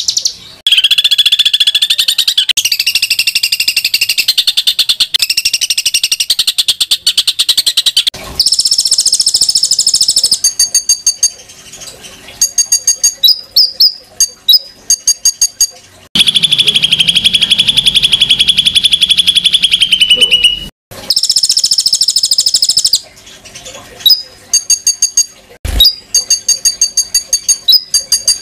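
Recorded songbird song of the harsh 'tembakan' kind used as masteran for training competition birds. Long, fast rattling trills alternate with quick runs of sharp repeated notes, with short breaks between phrases.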